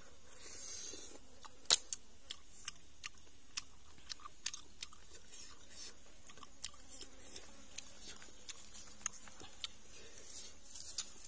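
A person eating grilled river clams: chewing, with a run of sharp, irregular clicks, the loudest about two seconds in.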